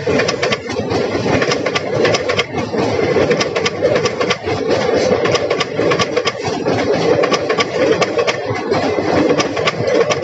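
Express train's passenger coaches rolling past close by: a steady loud rumble with rapid, irregular clicking and clatter of steel wheels on the rails.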